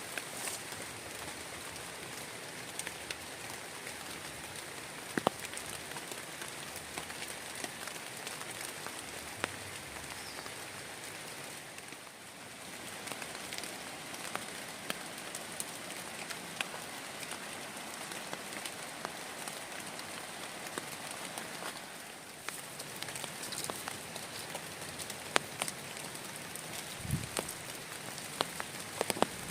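Heavy rain falling steadily, a constant hiss with scattered sharper drop impacts.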